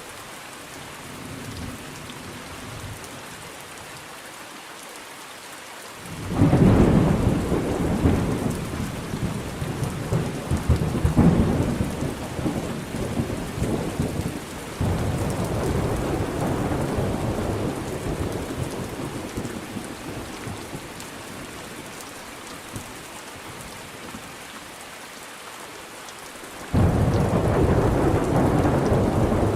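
Rain falling steadily through a thunderstorm. Long rolls of thunder come in: one breaks suddenly about six seconds in and rumbles on for several seconds, a second follows and fades, and another breaks loudly near the end.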